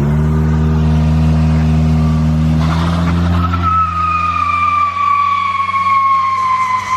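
Car engine revving up and held at high revs. From about four seconds in, the tyres squeal in one long, slowly falling tone as the car skids.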